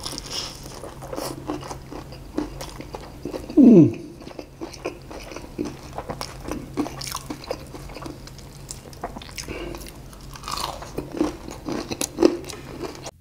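Close-up biting and chewing of crispy fried chicken, with many short crunches and clicks from the battered skin. About four seconds in there is one loud, brief sound that falls in pitch.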